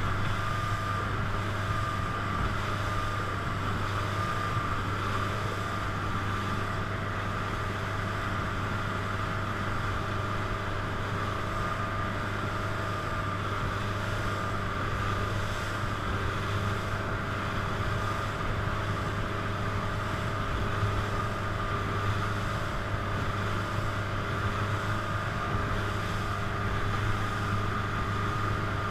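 Motorboat engine running steadily under way: a constant low hum with a thin higher whine above it, over an even rush of noise.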